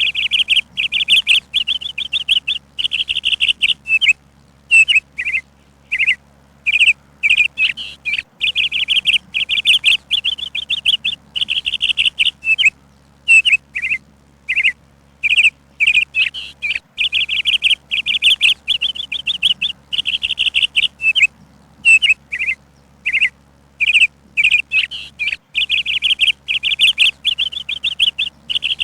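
A songbird chirping in quick trilled phrases, broken by short pauses, repeating throughout.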